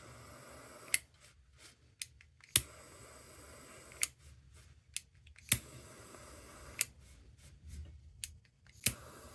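Small sharp clicks and taps at irregular spacing, roughly one a second, over a faint steady hiss.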